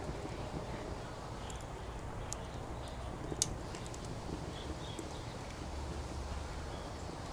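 Wood fire in a Coleman Fire Disc fire pit crackling, with a few sharp pops, the loudest about three and a half seconds in, over a steady low rumble of background noise.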